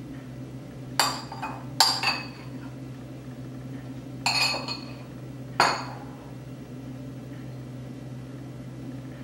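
Spoon clinking against a bowl four times while scooping out the potato and cheese filling, each clink with a short ring. The last few seconds hold only a steady low hum.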